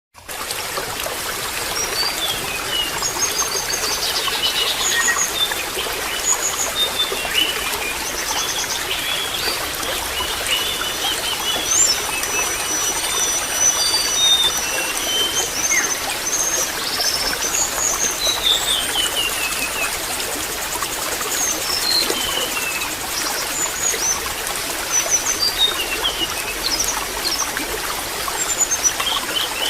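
Water trickling steadily, with small birds chirping and whistling in short calls throughout.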